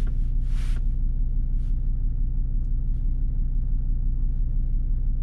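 Car engine idling steadily, a constant low rumble. There are a couple of brief breathy hisses near the start.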